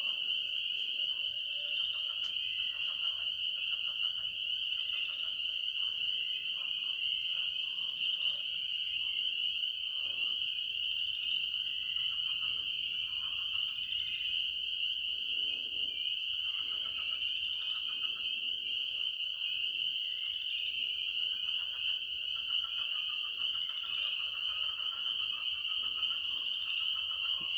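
Night chorus of frogs: a dense, steady high-pitched calling that never lets up, with scattered fainter, lower calls mixed in.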